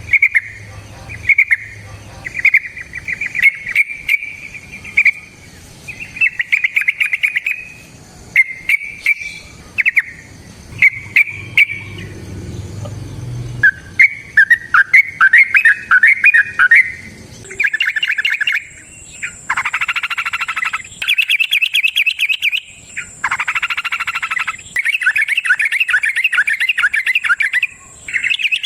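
Yellow-vented bulbul (trucukan) singing: bubbling, chattering phrases pitched close together, short and separated by sharp ticks at first, then running into longer unbroken stretches of song over the second half.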